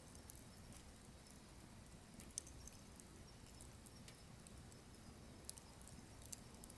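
Firewood burning in a wood stove, crackling faintly. Scattered sharp pops and ticks come at irregular intervals over a low steady rumble of flame.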